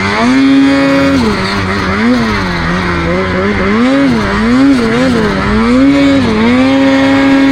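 Snowmobile engine revving up and down over and over as the throttle is worked. It holds steady at higher revs for about a second near the start and again near the end.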